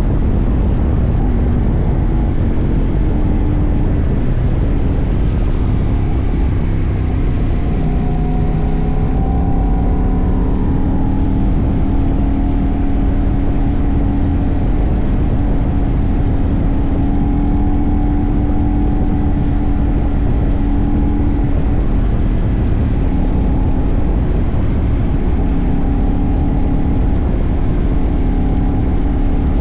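CFMoto 800NK's parallel-twin engine running at steady riding revs under heavy wind rush, its pitch drifting slightly up and down as the throttle and speed change.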